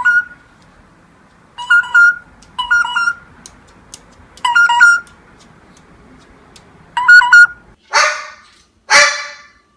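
A pet parrot whistling short two-note phrases, five or six times with pauses between, then giving two harsh, honking squawks about a second apart near the end.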